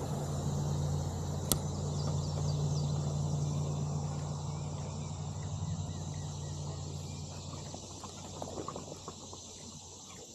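A steady low engine hum that slowly fades and stops about eight seconds in, with faint bird chirps.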